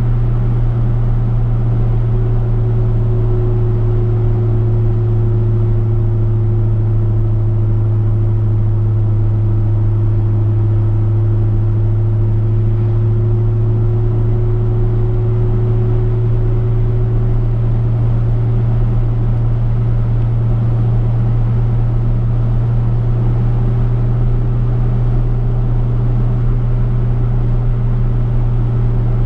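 Chevrolet V8 car cruising at a steady speed, its engine and road noise making an even, unbroken low drone with a faint steady whine above it.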